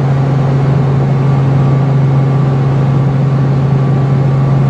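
Helicopter engine and rotor drone heard from inside the cabin in flight: a loud, steady low hum over dense mechanical noise, unchanging throughout.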